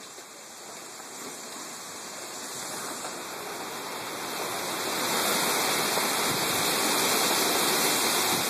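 Strong dust-storm wind rushing as a steady hiss. It grows louder over the first five seconds or so, then holds.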